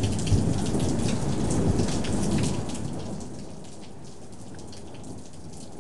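Thunder rumbling for about three seconds and fading away, over steady rain.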